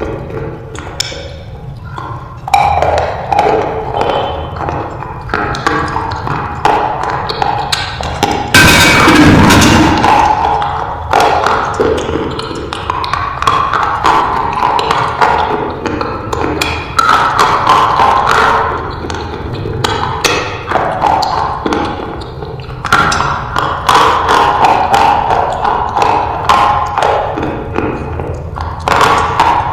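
Slate pencils being bitten and chewed close to the microphone: a long run of sharp, irregular crunches and snaps.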